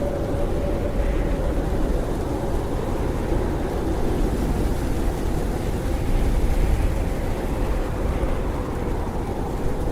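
Blizzard wind blowing steadily with a low rushing noise and a faint howling tone that sinks slightly in pitch.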